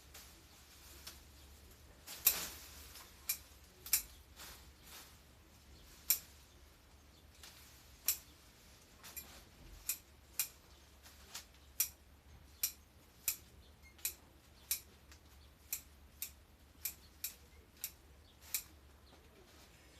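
Hand garden shears snipping through overgrown plants, one sharp snip after another. The snips are irregular at first, with a louder one about two seconds in, then come in a steadier run of about one and a half a second in the second half.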